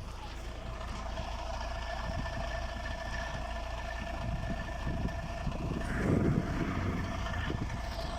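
Sitrak truck's diesel engine running, a steady drone with a steady whine heard inside the cab, with a louder low rumble about six seconds in.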